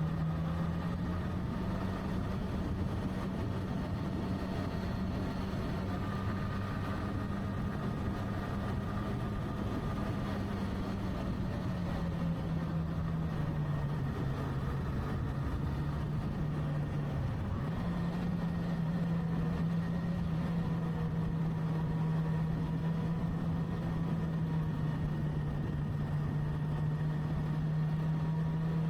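Motorcycle engine running under way at a steady pitch, with a steady rush of noise underneath. Its pitch sags for a few seconds in the middle and jumps back up about two thirds of the way through.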